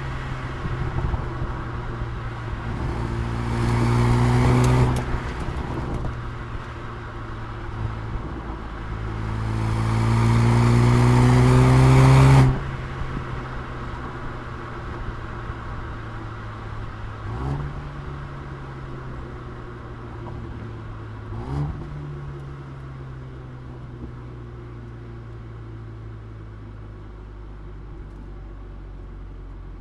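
Mercedes-AMG A35's turbocharged four-cylinder engine and exhaust, heard from the cabin, accelerating hard twice with rising revs. The second pull ends in a sharp lift-off about halfway through. The engine then settles into a lower, steady note with two short rev blips and eases off toward the end.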